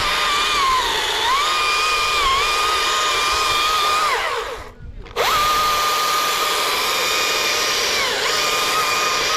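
Electric power tool motor whining at high speed in two runs of about four seconds each. Each run starts abruptly, dips briefly in pitch partway through, and spins down with a falling whine when released.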